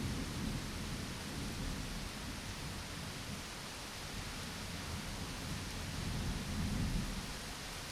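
Steady rain with thunder rumbling low, easing after the start and swelling again near the end.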